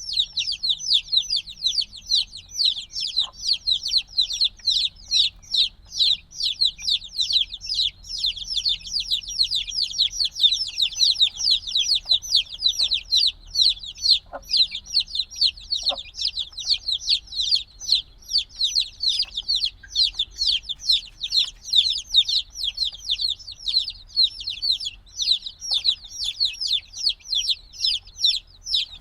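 A brood of chicks a few days old peeping loudly and without pause, many high, rapid, downward-sliding chirps overlapping. Chicks this young peep like this when they want warmth from the mother hen.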